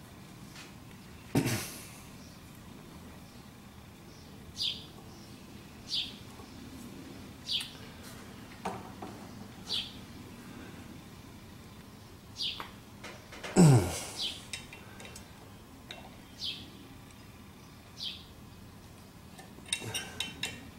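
A bird chirping repeatedly, short high chirps that fall in pitch, one every one to three seconds. A louder short sound comes about a second and a half in, and the loudest, a brief low sound falling in pitch, comes near fourteen seconds. Near the end there is a quick run of light metal clicks from a hex key in the adaptor's socket head cap screws.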